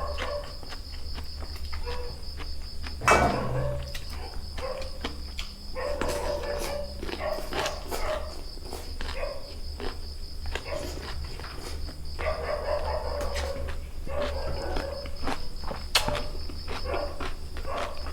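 Close-up eating sounds: irregular crunches and clicks of chewing crunchy food such as raw vegetables, with a louder crunch about three seconds in.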